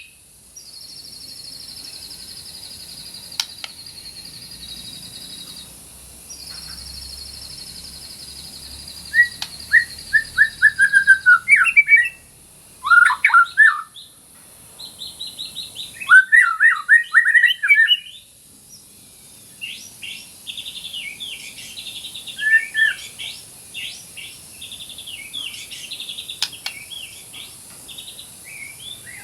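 White-rumped shama singing: two long, high, even trills of several seconds each, then loud varied whistled phrases and rapid chattering notes.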